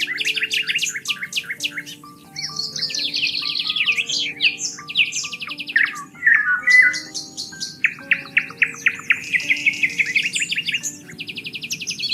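Birds singing in rapid trills and quick repeated chirps, one phrase after another, over soft background music of long held notes.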